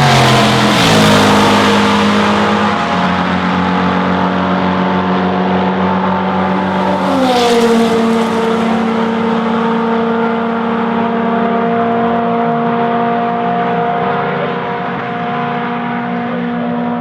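Historic racing car engines at high revs passing by at speed, the pitch dropping sharply as each goes past: once right at the start and again about seven seconds in.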